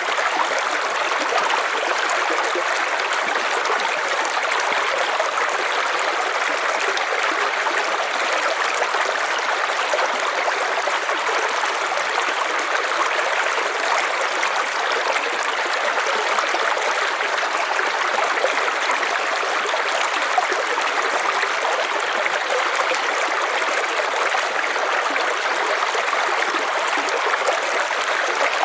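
River water flowing and splashing in a steady rush, with a fine bubbling texture and no change in level.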